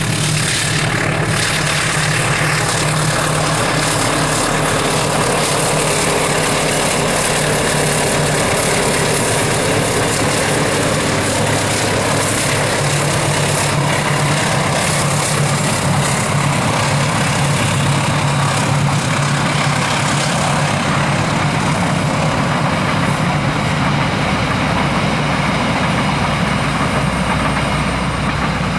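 Passenger train passing over a steel truss bridge: a steady low diesel locomotive engine hum under the continuous loud rolling noise of the coaches.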